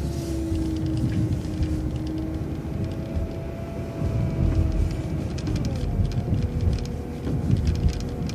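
City transit bus engine and drivetrain running with a low rumble and a steady whine, the whine dropping in pitch about six seconds in.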